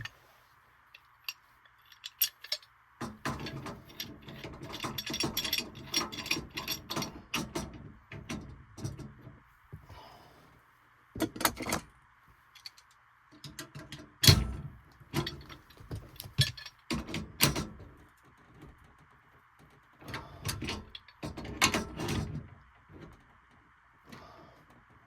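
Hands at work on metal parts and tools: irregular clicks, clatters and rattles in bursts, with one sharp knock a little past the middle, over a steady faint hiss.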